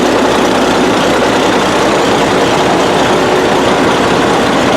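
Large power shovel's engine running steadily, loud and close, with no change in speed.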